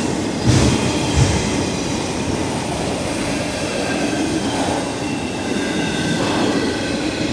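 CSX freight train rolling past close by, its wheels running steadily over the rails with a faint high wheel squeal and a couple of low thumps about a second in.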